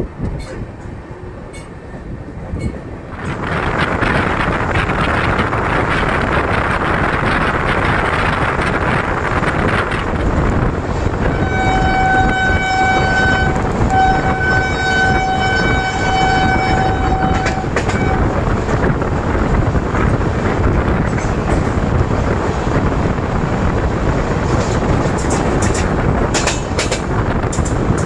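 Passenger train running, heard from an open coach door: a steady rush of wheel and air noise that swells after the first few seconds. About twelve seconds in, a locomotive horn sounds two long blasts, the second longer than the first.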